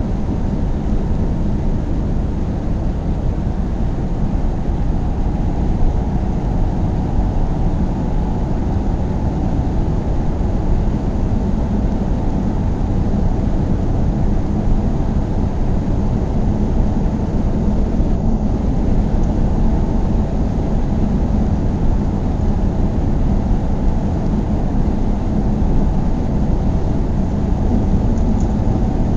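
Car driving at a steady speed: a steady low rumble of engine and tyre road noise with a faint even hum, unchanging throughout.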